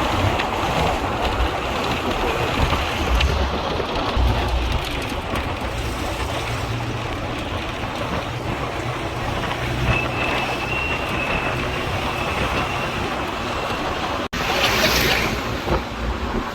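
Steady rumble of a moving vehicle heard from inside, engine and road noise, cutting suddenly near the end to a windier, brighter sound.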